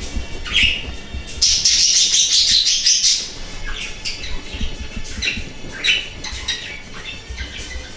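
Birds chirping in short repeated calls, with a dense burst of high chirping about a second and a half in. Faint music underneath.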